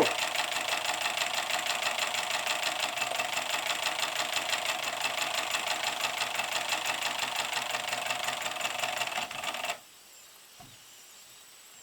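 Small live-steam side-tank locomotive chuffing at a quick, even beat with steam hiss, running slowly and a little jerkily on its first run-in. The sound cuts off suddenly near the end, as the engine stops with its boiler pressure run down.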